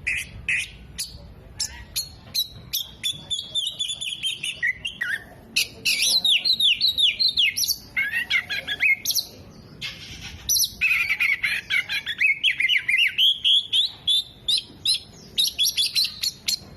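Oriental magpie-robin (kacer) singing a fast, varied song of chirps, down-slurred whistles and rapid trills, with short pauses. Its song is built with mimicked calls of sunbirds, bulbuls and lovebirds.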